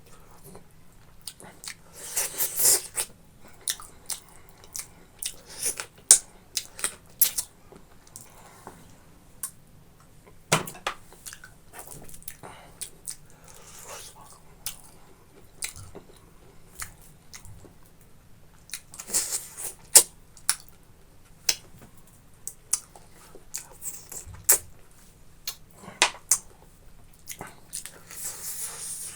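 Close-miked wet chewing and mouth smacks of someone eating boiled pork belly and rice with gravy, with frequent sharp clicks and several louder bursts of chewing.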